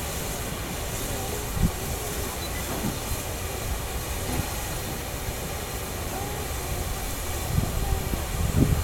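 A1 Pacific steam locomotive on a turntable, giving a steady low rumble with a soft steam hiss. There is a sharp knock about one and a half seconds in and a few more knocks near the end.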